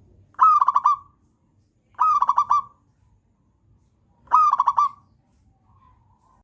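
Zebra dove singing: three short phrases about two seconds apart, each a quick stuttering run of rolling coo notes.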